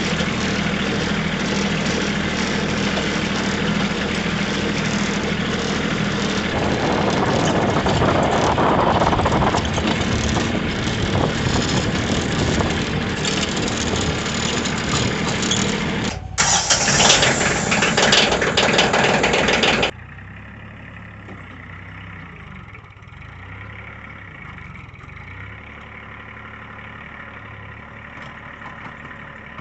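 Tractor engine running loud and steady with dense mechanical noise, broken by a short gap about 16 seconds in; about 20 seconds in it cuts off sharply to a much quieter, steady engine hum.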